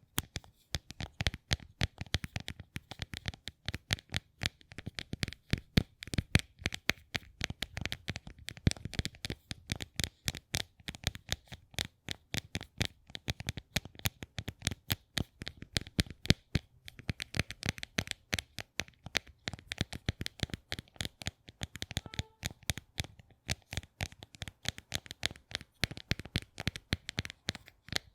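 Rapid, irregular clicking and tapping, several sharp clicks a second without a break, made as an ASMR trigger.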